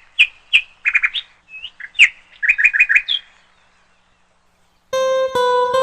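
A bird calling in short, sharp chirps: a few spaced notes, then quick runs of four or five, stopping a little after three seconds in. Plucked guitar music starts near the end.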